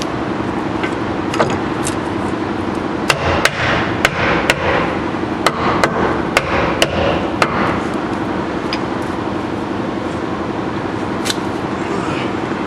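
Hammer striking sheet metal: a run of about nine sharp blows over roughly four seconds, with a few single taps before and after, over a steady hum.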